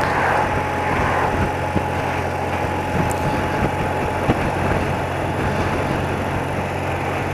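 Engine of a 30-year-old BMW motorcycle running steadily at low revs in slow traffic, under a steady rush of wind and road noise.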